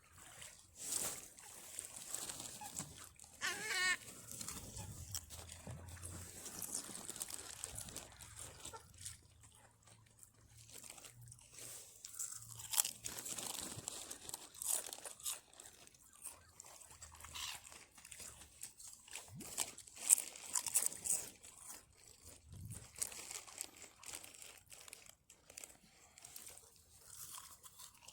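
Potato crisps crunching and their packet crinkling, in irregular sharp crackles. A short wavering bird call is heard about four seconds in.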